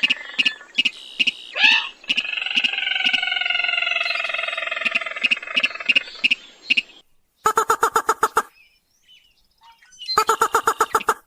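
Recorded rail calls of the kind played as a hunting lure (sintar, mandar padi). A steady run of sharp ticks, about three a second, sounds over drawn-out, wavering calls. After about seven seconds come two short bursts of fast rattling pulses with a pause between them.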